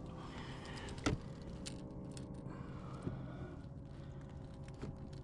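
Faint, steady electric hum from the kayak's built-in trolling motor, with a few light clicks and taps scattered through it.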